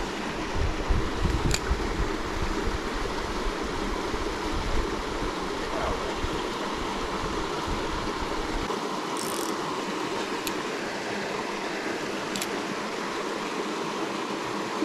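Creek water running steadily over rocks. A low rumble sits under it and drops away a little past halfway, and there are a few faint ticks.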